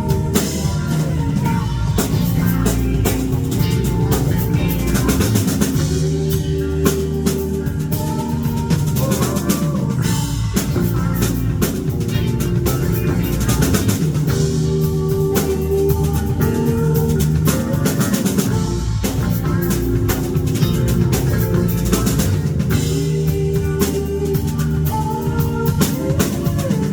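Rock band playing an instrumental passage: a drum kit keeping a steady beat under sustained guitar and bass notes.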